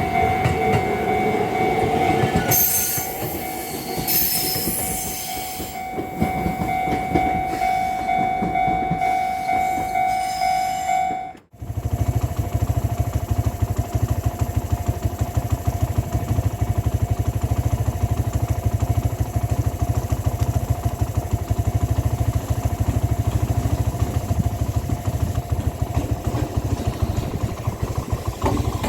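A Minobu Line train passing a level crossing, with the crossing bell ringing steadily and a burst of higher-pitched train sound a few seconds in. After a sudden cut about halfway, a steady low rumble with fast regular ticking runs on.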